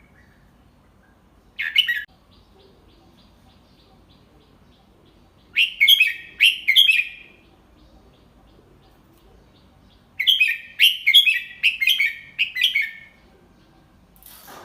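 Red-whiskered bulbul singing: a short call about two seconds in, then a quick three-note phrase, and later a longer run of six or seven quick notes. This is tutor song for young bulbuls to learn from.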